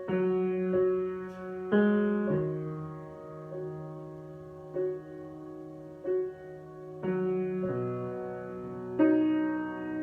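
Solo piano improvisation at a slow pace: soft chords are struck every second or two and left to ring, with the bass note changing under them.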